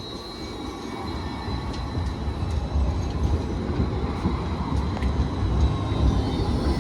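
Light rail tram approaching, its low rumble growing steadily louder, with a thin steady high whine above it.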